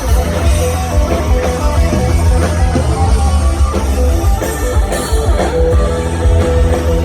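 Live rock band playing an instrumental passage without vocals: electric guitar lines over bass and drum kit.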